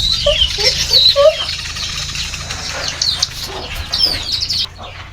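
Birds chirping busily in quick high calls, with a few lower, shorter calls among them; the chirping stops abruptly shortly before the end.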